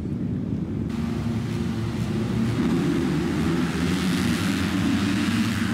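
Motocross bike engines running, with a rushing noise over them that swells a little in the second half.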